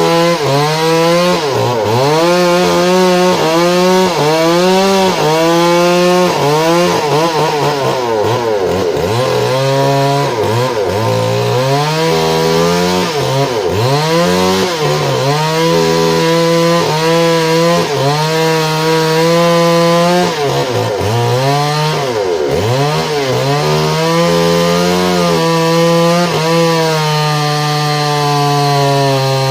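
Petrol engine of a saw cutting into a log, running hard throughout. Its pitch repeatedly sags under the cutting load and climbs back every second or two.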